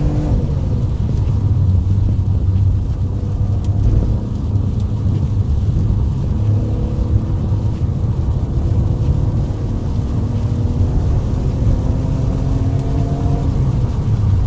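Car engine running under way with a heavy low rumble, its note rising slowly as it accelerates, dropping once near the start and climbing again twice, over steady road noise.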